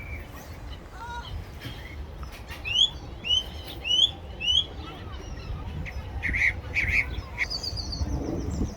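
Seagulls calling: a run of about five short rising squeals, each a bit under half a second apart, in the middle, then quicker, higher calls near the end, over a low background rumble.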